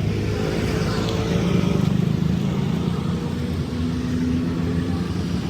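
Vehicle engine running steadily, with a low, even drone.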